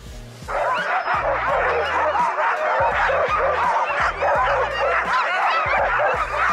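A large pack of sled huskies yelping, yipping and howling all at once, many overlapping calls starting about half a second in, over a music track's low bass beat.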